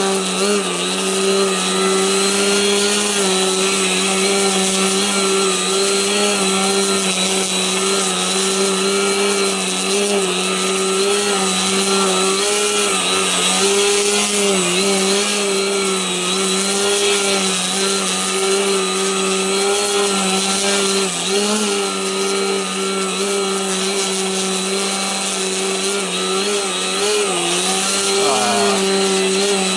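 Radio-controlled aerobatic model plane hovering, its propeller running with a steady buzzing drone. The pitch dips and rises a little every few seconds as the throttle is worked to hold the hover.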